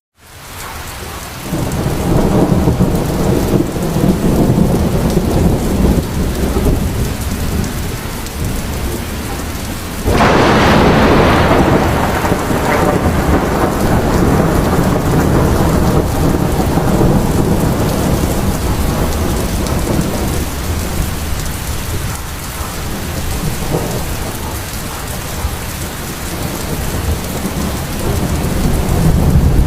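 Heavy rainstorm: rain pouring steadily under a low rumbling, with a sudden loud crash about ten seconds in that dies away over a few seconds, like a thunderclap.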